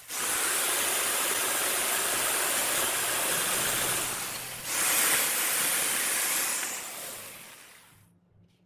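A loud, steady hiss in two long bursts: the first starts suddenly and fades after about four and a half seconds, and the second starts suddenly just after and fades out about three seconds later.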